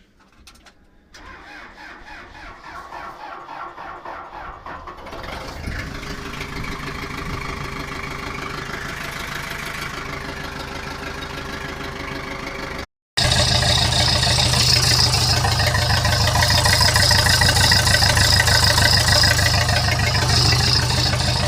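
Cold start of a Case 207D diesel engine on starting fluid. It cranks for several seconds, catches, and settles into steady running, which is louder after a brief break near the middle.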